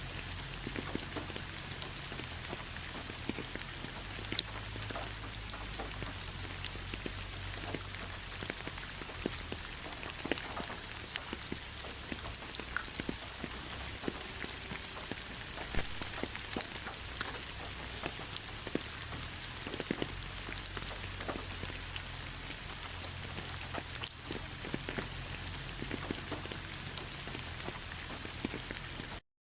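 Autumn rain falling on fallen leaves: a steady patter with many scattered light drop ticks. The sound cuts out briefly near the end.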